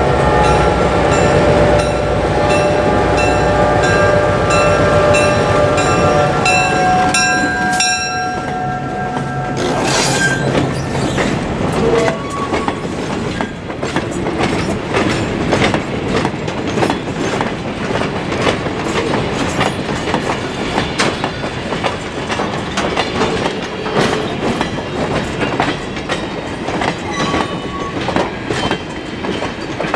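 A locomotive horn sounds a multi-tone chord over the heavy rumble of the locomotive for about the first eight seconds, dropping slightly in pitch as it passes before cutting out. After that, freight cars roll by with a fast clatter of wheels over rail joints.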